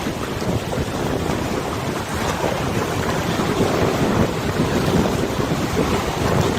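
River wind rushing and gusting across the microphone, a steady low rush with river water washing beneath it.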